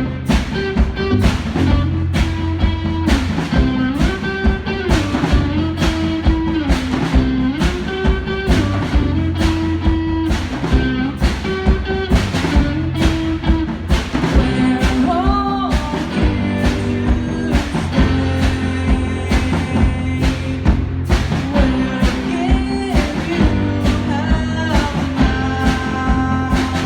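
Rock band playing live, with a drum kit keeping a steady beat under bass and guitar lines that move between notes.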